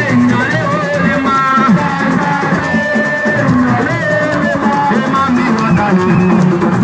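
Assiko music: drums and shakers playing a driving rhythm, with a bending melodic line over them.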